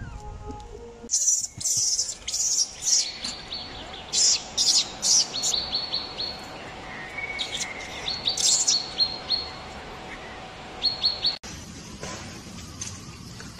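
Birds chirping: rapid runs of short, high chirps mixed with harsher, scratchy calls, repeated over and over, cutting off suddenly near the end.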